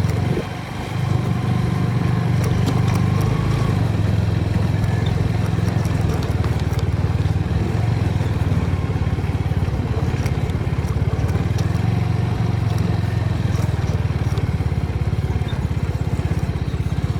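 TVS Apache motorcycle's single-cylinder engine running steadily as a deep, low drone, growing louder about a second in.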